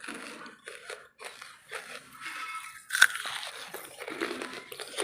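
Close-miked chewing of wood charcoal: a run of dry crunches as pieces are bitten and ground between the teeth, with one sharp, loud snap about three seconds in.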